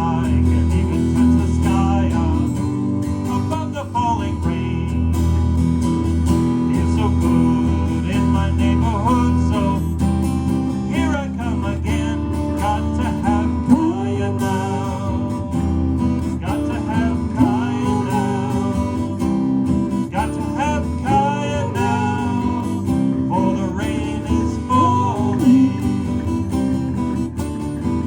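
Live band playing a reggae tune, with strummed and lead guitar to the fore over bass and drums, and no singing.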